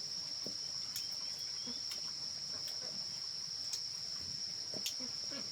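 Steady, high-pitched chirring of insects, with a few faint clicks now and then.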